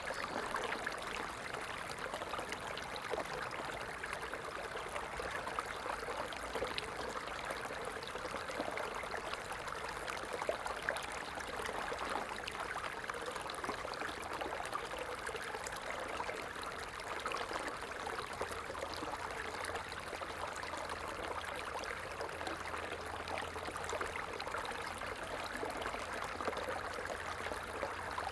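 Stream water flowing steadily, an even rushing with fine trickling.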